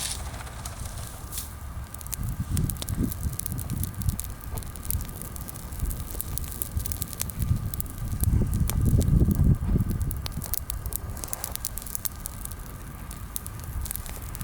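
Bonfire of freshly pruned, mostly green branches burning, with frequent small crackles and pops over a low rumble that swells about eight seconds in.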